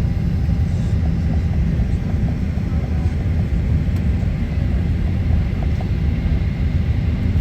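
Steady, low rumble of cabin noise inside an airliner, a Boeing 767-300, with a faint steady high tone above it.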